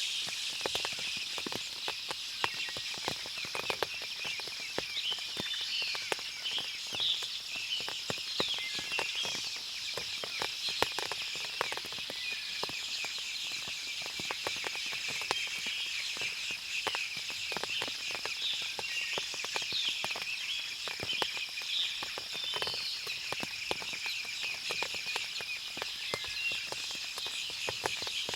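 Forest ambience after rain: a steady high-pitched insect drone, scattered short bird chirps, and frequent small ticks throughout.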